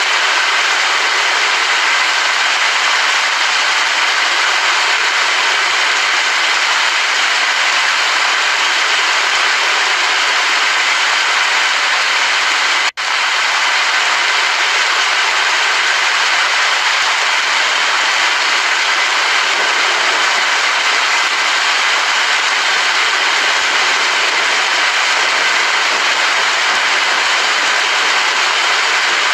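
Steady rain noise, an even hiss that drops out for an instant about halfway through.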